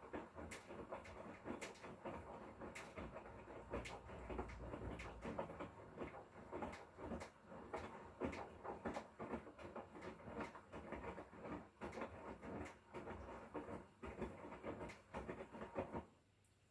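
Hotpoint Core 8 kg washing machine with inverter motor running a wash, the drum turning with irregular clicks and knocks over a low rumble. The sound stops abruptly about 16 seconds in.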